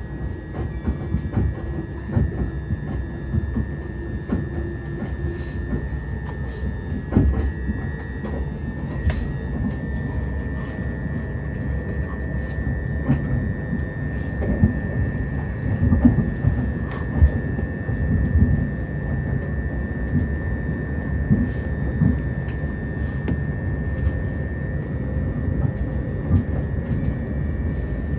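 c2c electric passenger train running at speed, heard from inside the carriage: a steady low rumble of the wheels on the rails with a constant high whine, and scattered clicks and knocks throughout.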